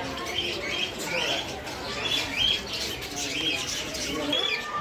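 A group of small caged birds, among them Java sparrows, chirping in short high notes that repeat over and over.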